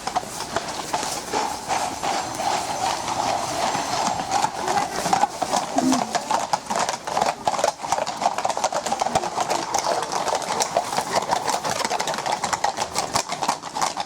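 Horses' hooves clip-clopping on hard ground, several horses walking, giving a dense, irregular run of sharp knocks.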